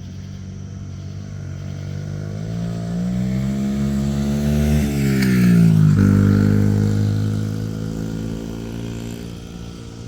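A road vehicle's engine passing close by. It grows louder as it approaches, drops sharply in pitch as it goes past about six seconds in, then fades.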